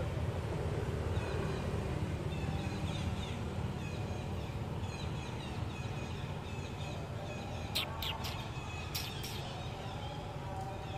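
Birds chirping in short repeated calls over a steady low rumble, with a handful of sharp clicks about eight to nine seconds in.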